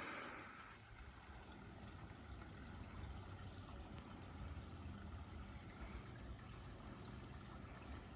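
Faint, steady trickle of running water in a garden koi pond.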